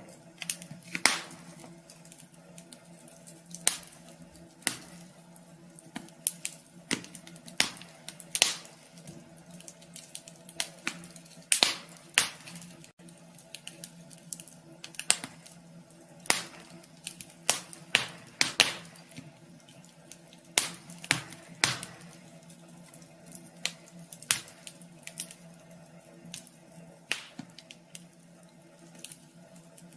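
Wood fire crackling in a wood stove: irregular sharp pops and snaps, some louder than others, over a steady low hum.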